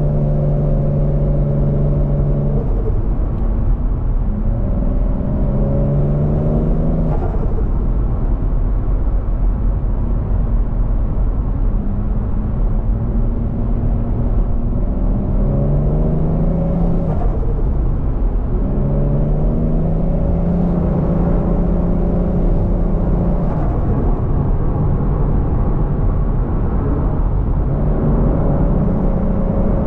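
Turbocharged Toyota 1JZ-GTE VVTi straight-six in a Scion FR-S accelerating through the gears: its pitch climbs and then drops sharply at each of several shifts, over a steady low rumble. Brief turbo flutter is heard at some of the shifts.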